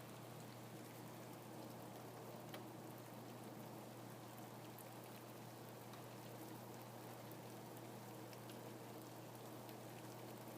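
Steady rain, a soft even hiss with occasional single drops ticking through it, over a faint low hum.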